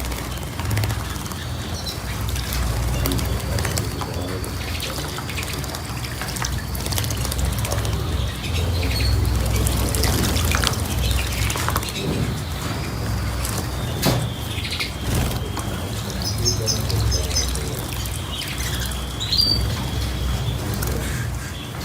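Small cage birds chirping on and off, with scattered knocks and water splashing as they bathe, over a steady low rumble.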